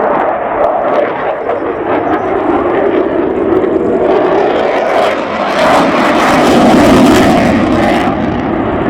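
Aircraft flying past, engine noise swelling to its loudest about seven seconds in, then easing off.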